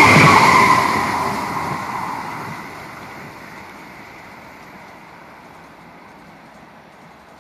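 E6 series Komachi Shinkansen train passing at speed, its rushing running noise loud at first and fading away over about three seconds as it recedes, leaving only faint background noise.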